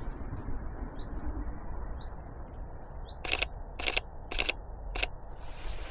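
Short, faint, high bird chirps about a second apart, then four sharp, evenly spaced clicks about half a second apart, typical of a camera shutter firing frame by frame.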